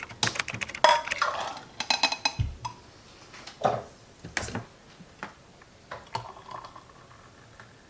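A run of light clicks, knocks and clinks from small hard objects being handled, some ringing briefly. They come thick in the first few seconds and thin out after about four seconds.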